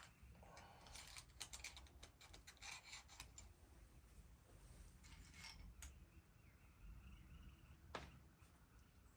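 Faint metallic clicking and scraping as a tie rod end is turned by hand on its threads to lengthen the steering linkage: a cluster of small clicks in the first few seconds, a few more later, and one sharper click near the end.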